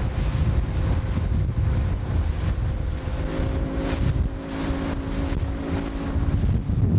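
Wind buffeting the microphone on a motorboat under way, a heavy low rumble. A steady engine drone stands out more clearly from about halfway through until just before the end.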